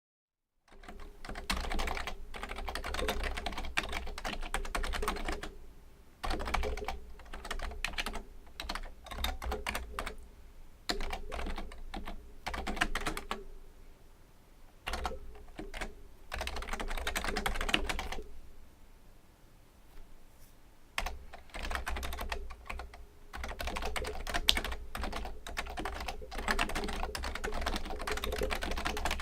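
Typing on a Fujitsu Component Libertouch, a high-end membrane keyboard: fast runs of keystrokes with short pauses between them, and quieter lulls about halfway through and again a little later.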